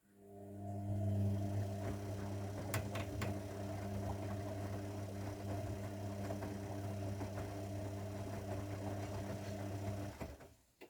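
Zanussi washing machine giving off a steady electric hum that starts at once, with two light clicks about three seconds in, and cuts off abruptly after about ten seconds.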